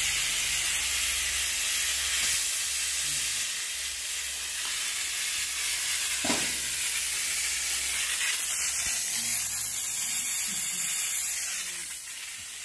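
Steady hiss of air rushing out of a punctured car tyre, dropping off near the end.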